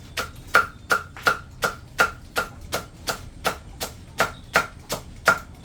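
Knife or cleaver chopping pig feed on a wooden board in a steady rhythm, about three strokes a second, each a sharp knock.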